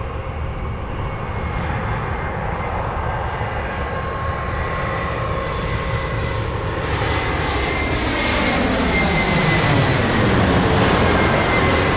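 Jet airliner engines whining on approach, growing louder over the last few seconds as the aircraft draws near.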